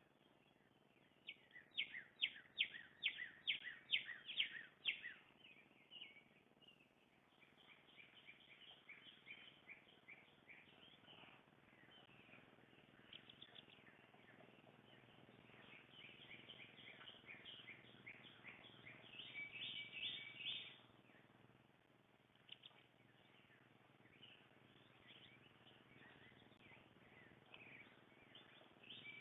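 Songbirds singing and chirping. It opens with a run of about ten loud, quick down-slurred whistled notes, and is followed by softer mixed chirps and twitters, with a brief louder twitter near the end.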